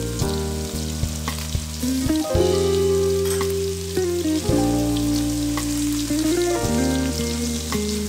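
Shrimp, chicken and tom yum paste sizzling in oil in a wok and stirred with a spatula, with a few light scrapes. Background music of long held chords that change every two seconds or so plays over it.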